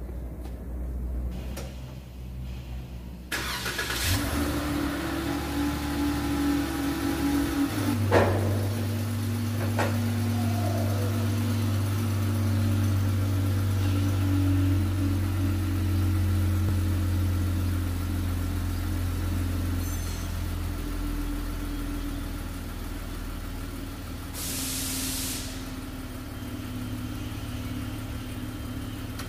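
Chrysler 300 car engine starting about three seconds in, then idling steadily as the car is rolled forward onto the alignment rack for rolling compensation. A sharp click about eight seconds in and a short hiss near the end.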